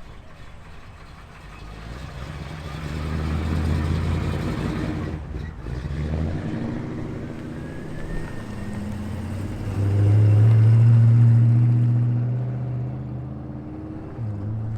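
Muscle car exhausts running low and steady as cars drive slowly past one after another, swelling about three seconds in and loudest about ten seconds in.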